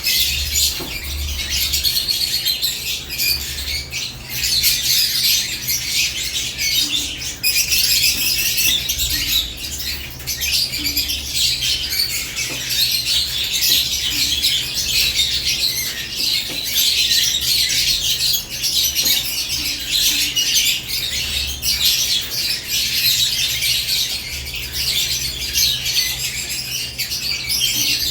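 A group of caged lovebirds chirping and squawking in continuous, overlapping high-pitched chatter, with a steady low hum underneath.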